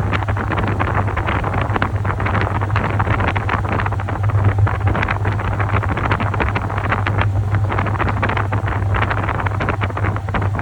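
Top-loading washing machine running, water churning and sloshing in the tub over a steady motor hum.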